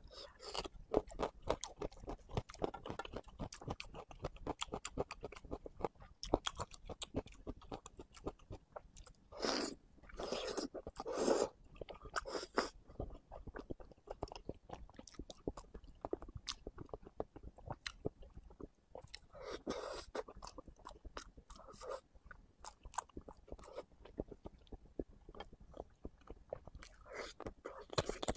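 Close-miked chewing of soft braised food, starting with potato slices: a steady run of wet mouth clicks and smacks, with a few louder, longer mouth sounds about ten seconds in and again near twenty seconds.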